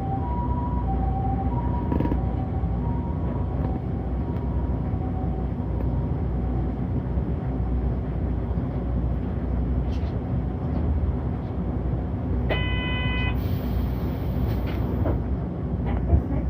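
City bus running with a steady engine and road rumble, while an emergency vehicle's two-tone siren alternates high and low and fades away over the first several seconds. About twelve seconds in, a short electronic beep sounds.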